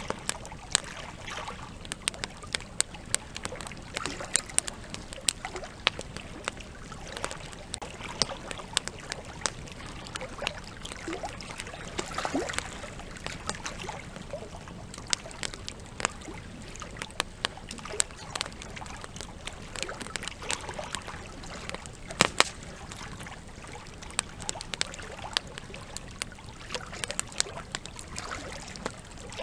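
Wood fire crackling, with frequent irregular sharp snaps, over the steady rush of a flowing river.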